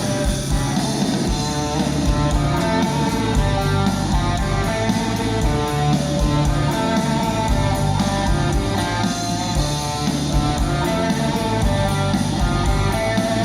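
A rock band playing live, an instrumental passage with a guitar melody over bass and drums.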